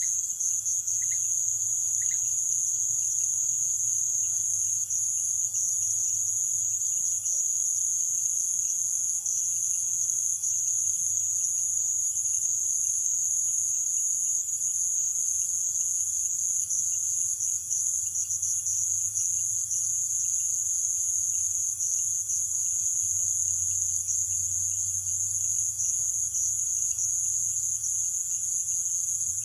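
Night insect chorus: a dense, steady high-pitched trilling with a fine pulsing texture and a second, lower steady tone, joined by a few short chirps about once a second at the start.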